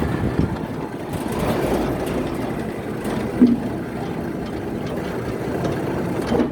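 Electric sliding gate opening: the motor drives the gate along its toothed rack with a steady running rumble. A brief louder squeak or knock comes about three and a half seconds in, and the motor stops abruptly at the end.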